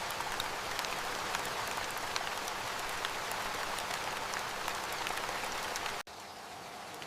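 Steady rain falling, an even hiss scattered with small drop ticks. About six seconds in it cuts off abruptly and gives way to a quieter, smoother hiss.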